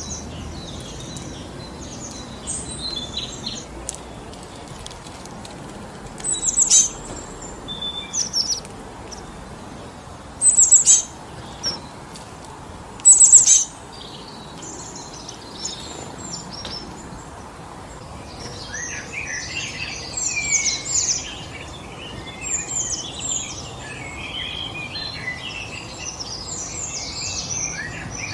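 Wind blowing steadily through forest trees, with wild birds calling over it: a few loud, short calls that sweep downward in the first half, then a busy chatter of several birds chirping from about two-thirds of the way in.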